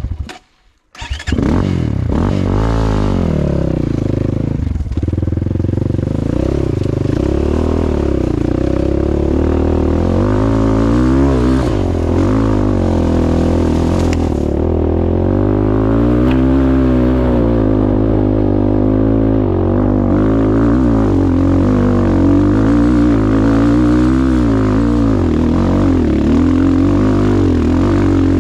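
Off-road motorcycle engine revving up and down under load, climbing a slippery clay slope. It comes in about a second in and keeps rising and falling in pitch.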